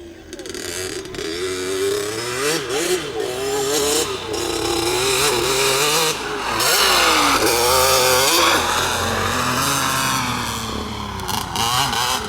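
A LEM RX 65cc two-stroke minicross bike's engine revving up and down as it is ridden. It grows louder over the first couple of seconds, then stays loud.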